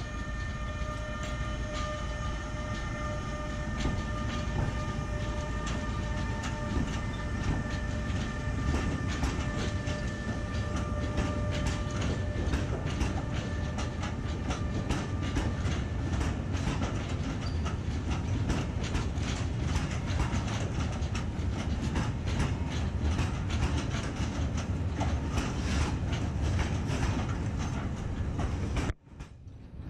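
Freight train of empty flat wagons rolling past behind a Bombardier TRAXX electric locomotive, the wheels clicking rapidly over the rail joints. A steady whine fades out about halfway, and the sound cuts off abruptly just before the end.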